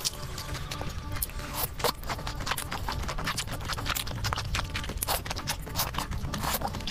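Close-up eating sounds of chewy tteokbokki rice cakes in a thick spicy sauce: wet chewing with many sharp mouth clicks and smacks.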